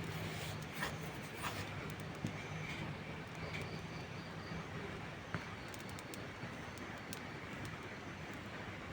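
Steady rain falling, with a few sharp pops from a crackling campfire, the clearest about a second, a second and a half, two seconds and five seconds in.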